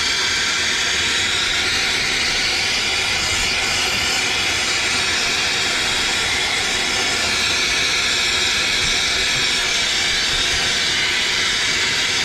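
A TurboTorch air-acetylene torch burning with a steady hiss as it heats a copper sweat joint to melt solder into the fitting.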